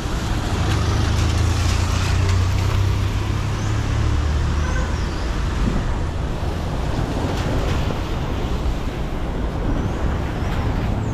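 City street traffic: a heavy vehicle's engine drones low as it passes during the first few seconds, over a steady hiss of tyres on the wet road.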